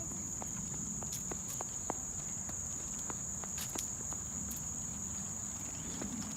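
Steady high-pitched insect chorus, with scattered light clicks and a low rumble underneath.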